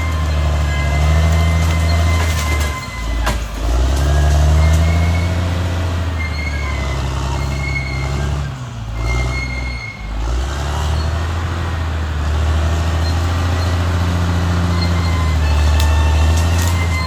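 Caterpillar D6R XL bulldozer's diesel engine running with a loud low drone that dips briefly twice, about three seconds in and again around nine to ten seconds in, with a faint high whine and a few sharp clanks on top.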